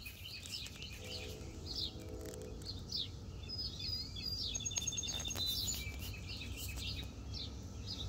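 Songbirds chirping repeatedly in short high calls, with a brief trill near the middle.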